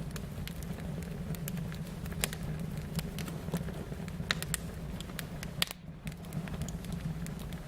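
A fire crackling: irregular sharp pops and snaps over a steady low rush of flame, with a brief drop in level about six seconds in.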